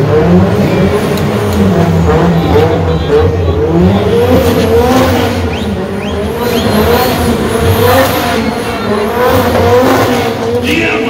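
Car engine revving hard, its pitch rising and falling again and again, as a car is worked in a burnout or spinning display.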